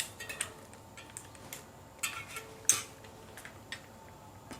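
Light metallic clicks and taps of a new rim brake pad and its small hardware being fitted and lined up in a bicycle brake caliper, a few scattered clicks with the sharpest pair about two seconds in and a moment later.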